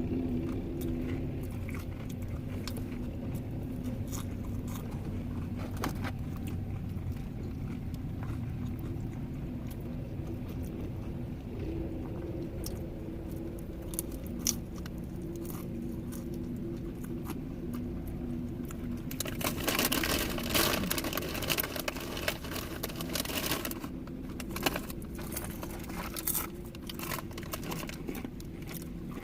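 Someone eating fries inside a vehicle cab: intermittent crunching, chewing and crinkling of a paper box or bag, with a denser burst of rustling about two-thirds of the way through, over a steady low hum in the cabin.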